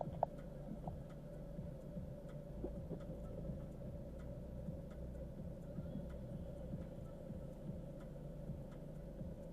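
Nissan Qashqai driving slowly over a rough dirt track: a low engine and road rumble with a steady hum, broken by frequent small knocks and rattles.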